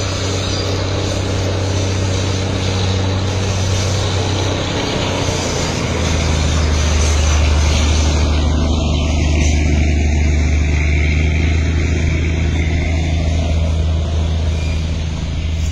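Train passing close below, its engine giving a loud, steady low drone that drops to a lower note about five seconds in, over a wash of running noise.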